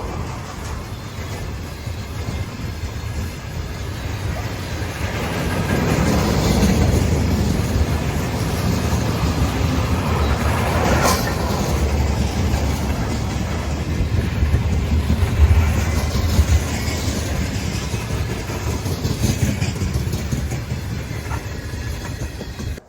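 Freight train wagons behind a VL11 electric locomotive rolling past with a steady rumble, the wheels knocking now and then over rail joints.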